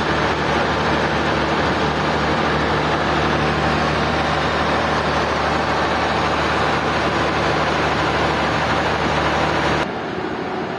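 Sawmill machinery running steadily, a constant rush of noise over a low motor hum. Near the end it drops suddenly to a quieter, different noise.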